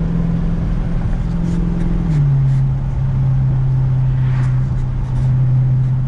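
2016 Dodge Challenger Scat Pack 392's 6.4-litre HEMI V8 running steadily through a straight-piped exhaust, its note stepping down slightly about two seconds in.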